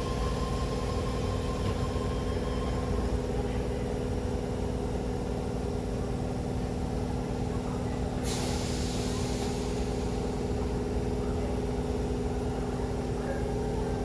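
Electric passenger train standing at the platform with a steady hum and low rumble, and a short hiss of released air from its air brakes about eight seconds in.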